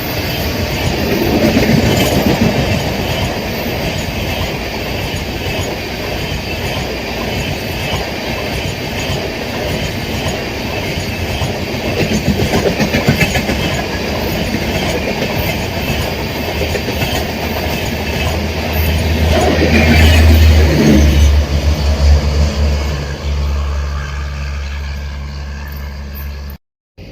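Express passenger train rushing past at speed, a continuous rumble with the wheels clattering over the rail joints. In the last few seconds a low steady hum comes up under it, and the sound then cuts off abruptly near the end.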